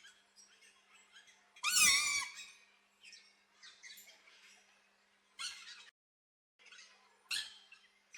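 Aviary birds calling, with one loud, harsh, wavering call about two seconds in and two shorter sharp calls later, over faint chirping throughout.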